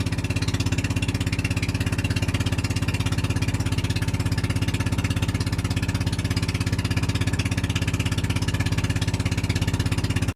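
A motor engine running steadily with a fast, even pulse, then cut off suddenly at the end.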